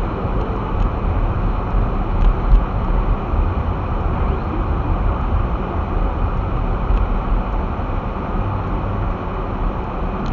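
Steady low rumble inside a vehicle creeping through drifted snow: engine and tyres in the snow, with a few faint clicks.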